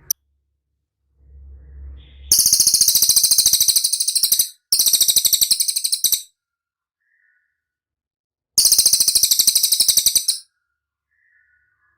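Cililin bird song: three loud, high, very rapid trills of about two seconds each, the last after a pause of a couple of seconds.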